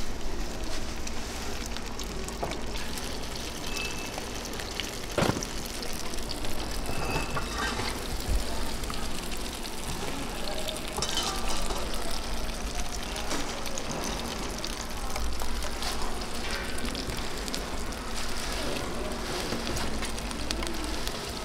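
Egg-dipped slices of stuffed squid sizzling steadily as they fry in oil on a hot pan. A metal spoon knocks now and then in the bowl of beaten egg, most clearly about five seconds in.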